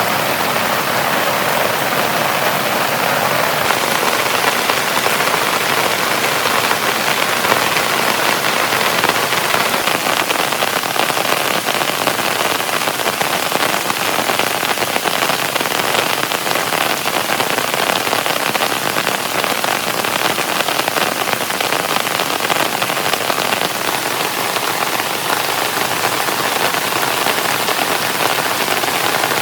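Heavy rain falling steadily and densely, an even rushing patter.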